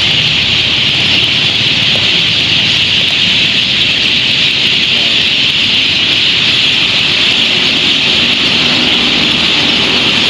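A huge flock of birds calling all at once: a loud, unbroken wall of high chirping and chattering that holds steady throughout, with a low rumble underneath.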